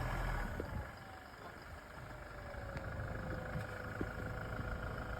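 Toyota Hilux's 2.8-litre four-cylinder turbodiesel running low and steady as the truck rolls on snow in four-wheel drive with no throttle. A thin whining tone falls in pitch over the first couple of seconds, then holds steady.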